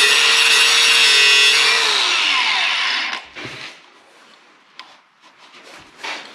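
Angle grinder grinding the corners and edges of a 3/16-inch steel plate, its motor at full speed, then winding down about three seconds in. Lighter intermittent scraping and knocks of the metal follow.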